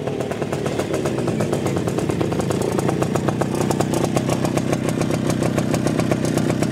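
Fiat 1100D's four-cylinder engine idling, a steady, even pulsing beat.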